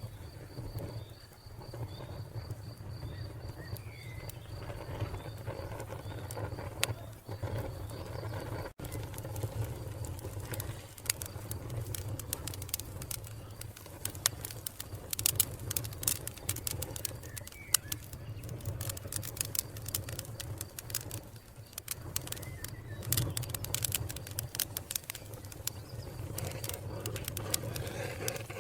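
Wood fire crackling: a steady low rumble under many sharp pops, which crowd together after the first third. A cricket chirps in fast, even pulses for the first several seconds, and a few short bird calls come through.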